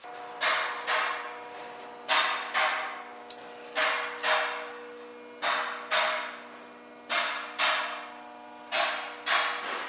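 Metal being struck with a hammer in pairs of blows, about one pair every second and a half, each strike leaving a ringing metallic tone that carries on between the blows.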